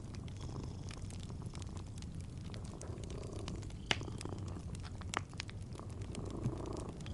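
A kitten purring steadily in a low, pulsing rumble, with fireplace crackles over it: two sharp pops stand out about four and five seconds in.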